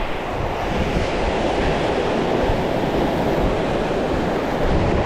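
Small sea waves washing at the shore, mixed with wind buffeting the microphone: a steady noise with low rumbling.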